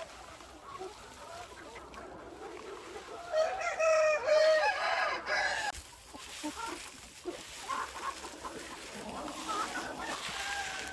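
A rooster crows once, a long call of about two and a half seconds starting about three seconds in, while chickens cluck softly around it.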